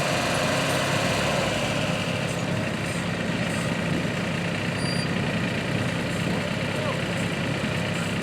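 Engine running steadily, with people talking in the background.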